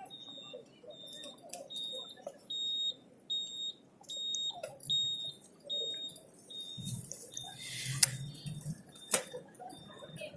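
An electronic beeper sounding a single high-pitched beep over and over, a little under two beeps a second. Near the end there is a low rumble and two sharp knocks.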